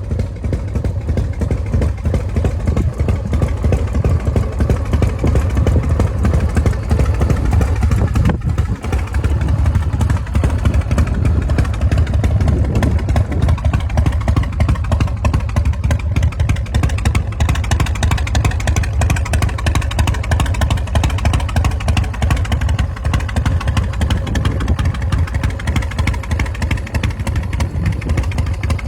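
2006 Big Dog chopper's 1916 cc V-twin engine running steadily, its exhaust pulses coming in a fast, even beat.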